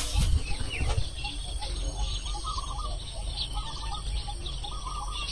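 Small birds chirping, with one short call repeating about every second and a bit from about two seconds in. Low rumbling on the microphone in the first second.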